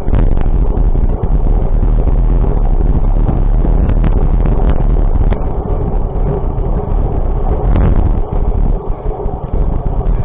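Steady low rumble of a moving vehicle with wind buffeting the microphone, and scattered small clicks and knocks.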